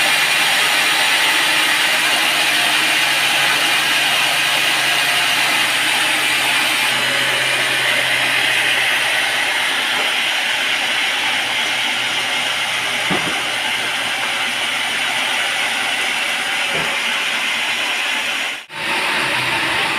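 Sawmill saw running and cutting teak wood: a loud, steady mechanical noise with a low motor hum that fades out partway, broken by a sudden brief drop near the end.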